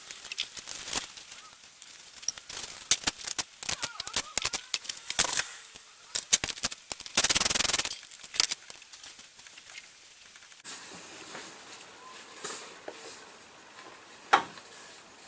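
A rapid, irregular run of sharp metallic clicks and knocks from hand tools and parts being handled, with a dense rattle about seven seconds in. After that only a few fainter clicks remain.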